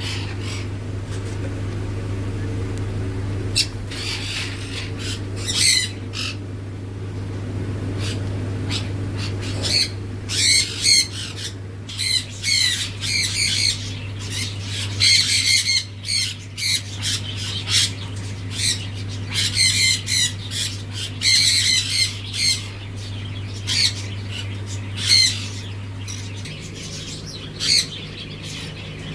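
Pineapple conures squawking in many short, high calls, thickest through the middle, over a steady low hum.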